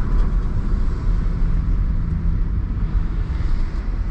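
Steady low rumble of road-vehicle noise, with no clear strikes or changes in pitch.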